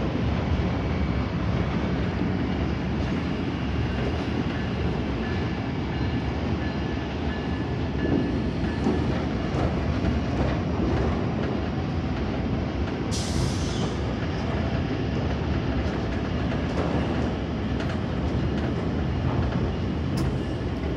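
A passenger train running past on the rails: a steady, even noise of its wheels and cars. A short high hiss comes about thirteen seconds in.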